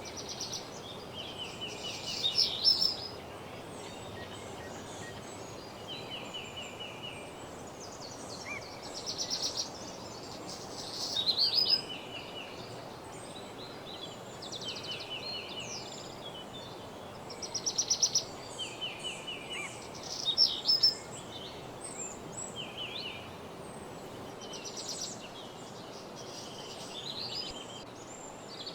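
Several songbirds singing, with quick trilled phrases every few seconds over a steady background hiss.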